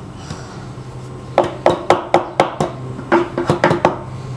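A claw hammer tapping nails into a wooden birdhouse. Quick light taps, several a second, come in two runs beginning about a second and a half in, and each strike leaves a short ring from the nail.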